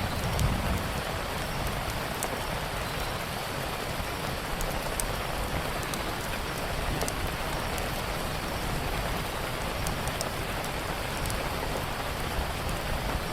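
Steady heavy rain falling on a surface, with scattered faint sharp crackles from a wood fire and a brief low rumble about half a second in.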